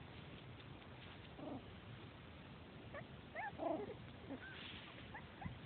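Three-week-old Welsh Terrier puppies whimpering: faint, short, high-pitched squeaks, a few at a time, most of them in the second half.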